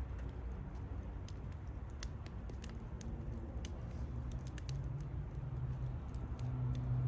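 Wood campfire crackling, with irregular sharp pops and snaps over a low rumble. A steady low hum comes up louder about five seconds in.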